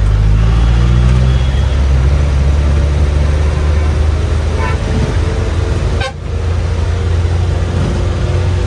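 NBSTC bus engine running, a loud steady low drone with a brief drop about six seconds in.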